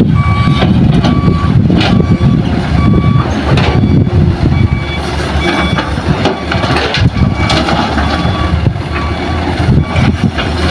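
Back-up alarm on heavy mining equipment sounding a string of evenly spaced beeps at one pitch, over the loud running of a large diesel engine.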